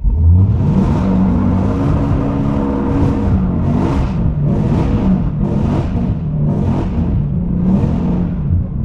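Dodge Challenger Hellcat's supercharged 6.2 L Hemi V8 revving hard through a drift on a wet road, its pitch rising and falling as the throttle is worked. A hiss surges about once a second.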